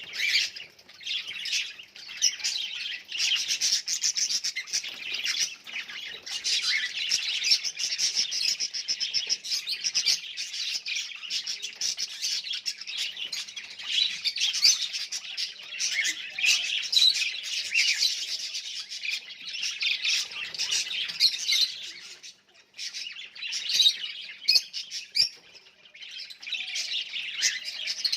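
A flock of budgerigars chattering and chirping together, a dense warbling with many birds calling at once and short sharp clicks among the calls, dipping briefly about three-quarters of the way through.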